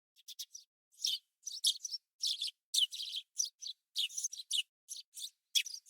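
Small bird chirping: a quick series of short, high chirps, several a second, with clean silent gaps between them.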